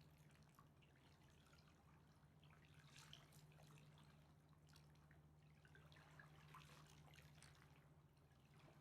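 Very faint river water lapping and dripping at the water's edge, with many small scattered splashes over a steady low hum.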